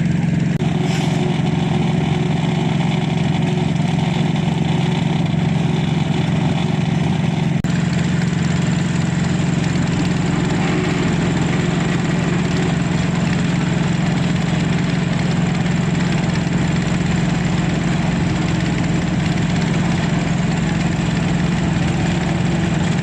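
Concrete mixer truck's diesel engine running steadily with a constant low hum; about eight seconds in, a deeper rumble and a thin high whine join it.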